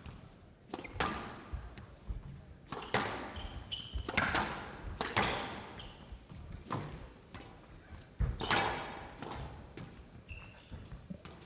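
Squash rally: the ball being struck by rackets and hitting the court walls, a string of sharp echoing knocks at an uneven pace, with a few short high squeaks from players' shoes on the court floor.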